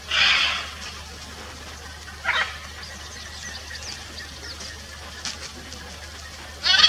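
Blue-and-yellow macaw giving harsh squawks: a longer one at the start, a short one a little after two seconds in, and another at the very end. Faint chirps of smaller birds sound in between.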